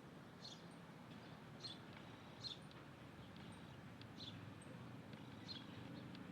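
A small bird giving short, high chirps, about five in all, roughly one a second, over a faint low background rumble.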